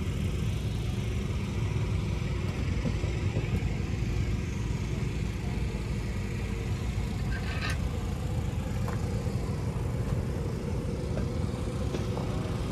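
Race car engines running with a steady low rumble, and a brief metallic clink about seven and a half seconds in.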